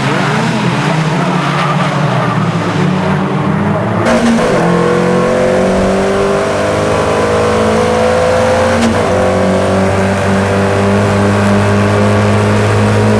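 Racing car engine under hard acceleration, its pitch climbing steadily and dropping sharply at gear changes about four and nine seconds in.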